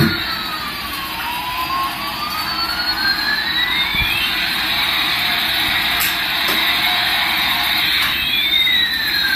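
Electronic toy's jet-engine sound effect: a steady hiss under a tone that glides down and back up over about four seconds, starting the same glide again near the end.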